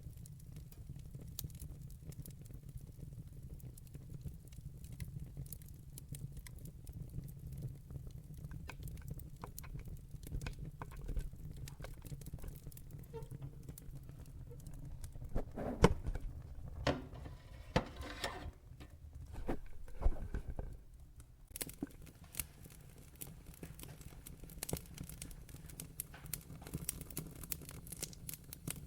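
Log fire crackling, with scattered sharp pops over a steady low rumble. A run of louder pops comes a little past halfway.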